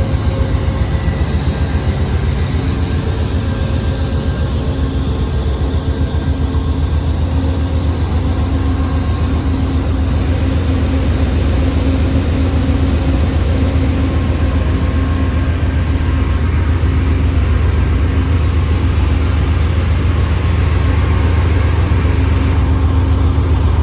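Amtrak P42DC diesel-electric locomotives running at a standstill, their GE V16 prime movers giving a loud, steady, low pulsing drone with a constant hum over it. It grows slightly louder in the second half.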